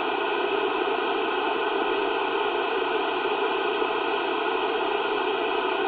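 Steady static hiss from a CB radio speaker between transmissions, with no voice coming through.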